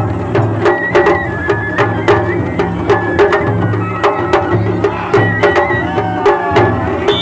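Japanese festival hayashi music: drums beaten in a steady, repeating rhythm, with a high flute melody of short held notes over them.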